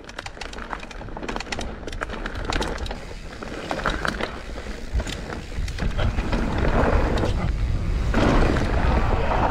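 Mountain bike riding fast down a dry dirt trail: a rumble of wind on the microphone, with tyre noise and many sharp rattles and clicks from the bike. It gets louder as the bike picks up speed.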